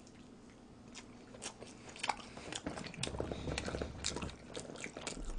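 Mouth sounds of biting into and chewing a slice of Chicago-style deep-dish pizza, with scattered small clicks and crunches, getting busier after about three seconds.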